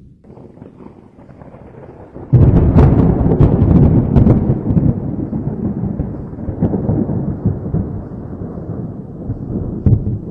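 Thunder: a faint low rumble, then a sudden loud thunderclap about two seconds in, with a few sharp cracks, rolling on into a long rumble that slowly fades.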